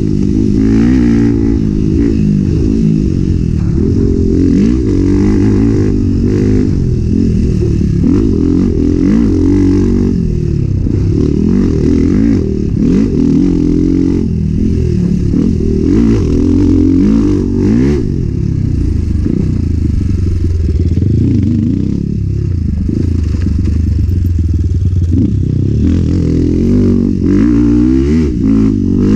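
Enduro motorcycle ridden hard off-road, its engine revs rising and falling again and again.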